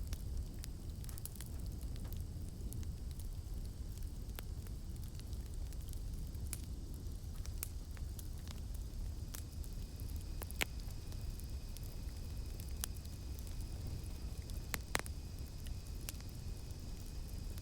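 Campfire burning with a low rumble and frequent sharp crackles and pops, two louder pops about ten and fifteen seconds in. A faint steady high drone of cicadas sits behind it.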